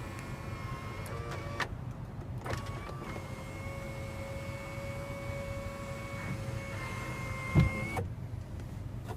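Power moonroof motor whining as the glass moves: a short run, then a long steady run of about five seconds that stops with a clunk near the end.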